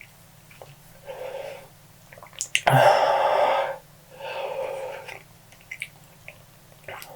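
A person breathing hard in three noisy, rasping breaths. The loudest comes about three seconds in, after a few sharp mouth clicks. This is the heavy breathing of someone enduring the burn of a super-hot chili chip.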